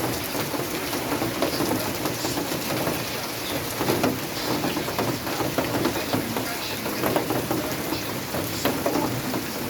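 Steady rain falling, with a dense patter of drops striking surfaces.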